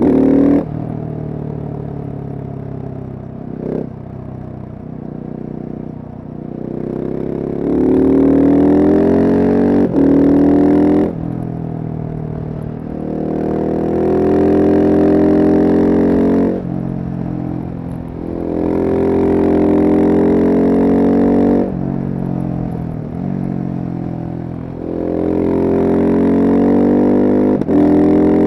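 Single-cylinder supermoto motorcycle engine on the road, pulling hard under throttle four times, with its pitch climbing through each pull. Each pull ends with a sudden cut of the throttle, and between pulls the engine runs quieter and winds down in pitch.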